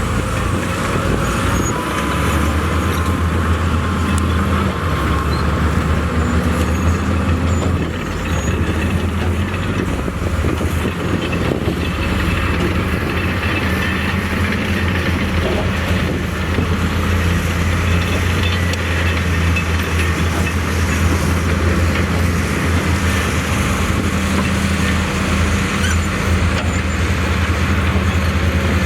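Heavy diesel earthmoving machinery running steadily, a deep engine drone with a brief dip in level about eight seconds in.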